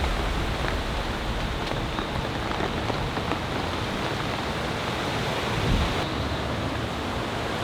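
Steady storm noise of wind and rain from Hurricane Helene's approach, with a heavy, uneven low rumble of wind buffeting the microphone.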